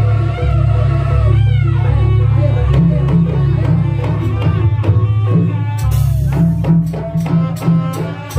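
Loud live music for a jaranan folk dance: a band with heavy bass, drums and melodic instruments, held and gliding notes over a steady beat, with a run of sharp drum strokes in the last couple of seconds.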